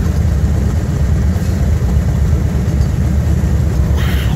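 Freight train of covered grain hopper cars rolling past over a grade crossing: a loud, steady, deep rumble, with a short burst of higher-pitched noise near the end.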